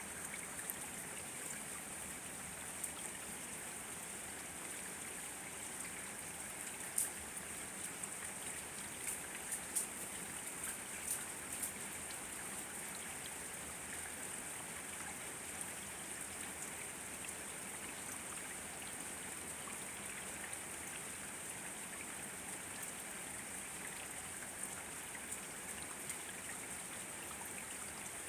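Steady rain falling, a constant hiss with individual drops ticking sharply, a handful of louder drops clustered about a quarter to halfway through.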